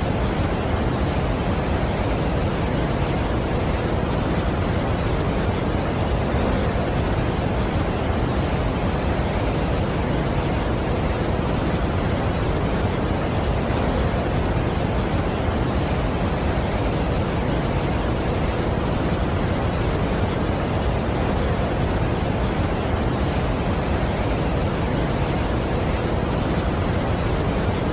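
Large waterfall's constant rush of falling water: a steady, unbroken noise heaviest in the low and middle range.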